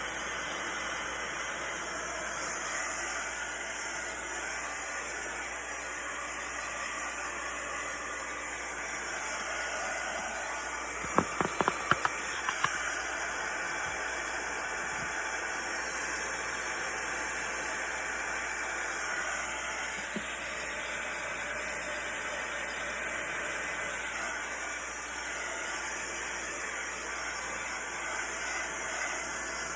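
Steady, even hiss, with a quick cluster of sharp clicks about eleven to thirteen seconds in.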